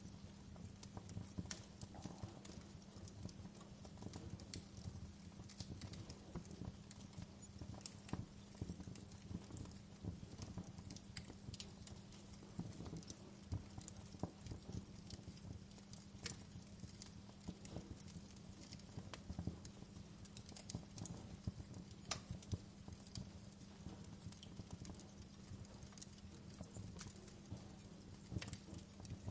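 Wood fire crackling, with sharp irregular pops and snaps over a low, steady hum.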